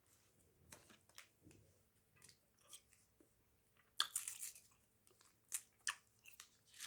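Close-miked chewing of a fresh, chunky wad of Hubba Bubba bubble gum: faint wet clicks and smacks, with a louder crackling cluster about four seconds in and a few sharp clicks near the end.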